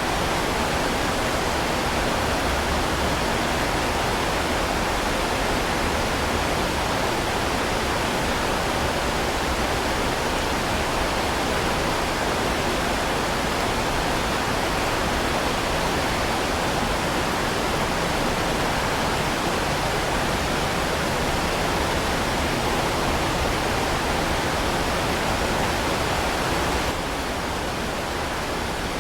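Heavy rain falling as a steady, dense hiss with no separate drops standing out. It eases slightly near the end.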